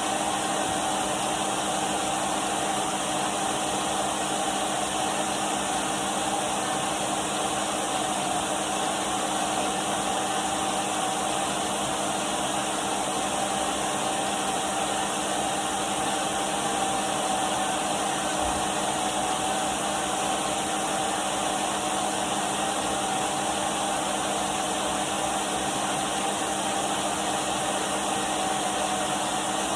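Numatic Henry cylinder vacuum cleaner running steadily: an even rush of air with a constant motor whine.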